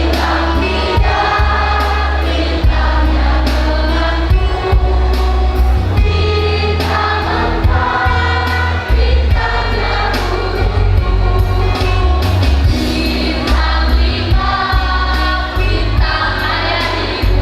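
School choir singing a song in sustained, held notes over a heavy, steady bass.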